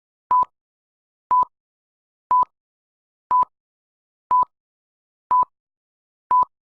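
Electronic beep tone, one short steady beep each second, seven times, with dead silence between: a countdown-style beep sequence.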